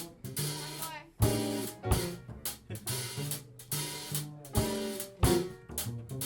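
Live band playing an instrumental passage: drum kit hits with snare and cymbal over a walking bass line and chords.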